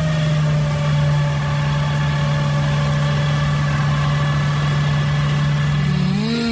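An engine running at a steady speed, its pitch rising and starting to waver near the end.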